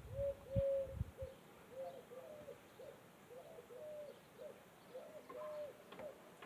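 Pigeons cooing: a string of short, arched coo notes repeating over and over, sometimes overlapping as if from more than one bird. A few low thumps in the first second or so are the loudest sounds.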